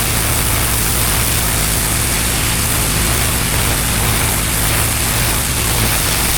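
Pressure washer running steadily: a low motor drone under a constant hiss of high-pressure water spray.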